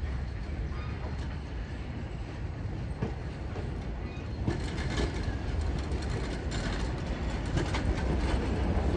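Passenger train rolling along the track: a steady low rumble of the coaches with scattered sharp wheel clicks over the rails, growing a little louder in the second half.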